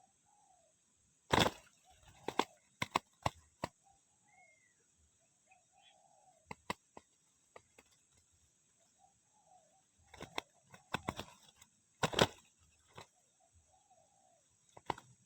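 Spotted doves cooing faintly, broken by sharp irregular taps and short bursts of wing flapping, over a steady high hiss.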